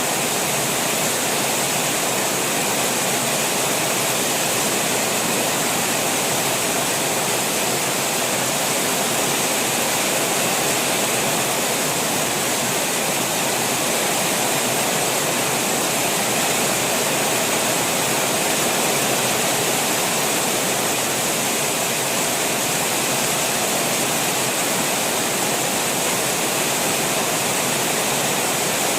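Steady rain over open fields with runoff water rushing, an even unbroken hiss.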